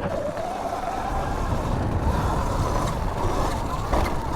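Sur-Ron Light Bee electric dirt bike's motor whining, rising in pitch as the bike speeds up and dropping back as it eases off, over low wind rumble on the microphone. A single knock sounds about four seconds in.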